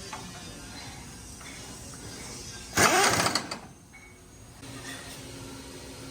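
A steady low machine hum, broken about three seconds in by a sudden loud burst of hissing noise lasting under a second, after which it drops quieter briefly before the hum returns.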